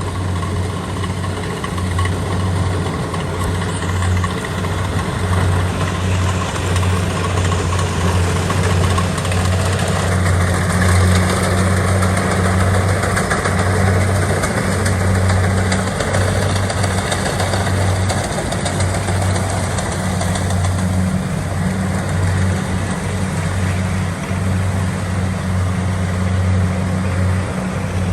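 Kubota DC70 Pro combine harvester's diesel engine running steadily: a constant low drone with machinery noise over it.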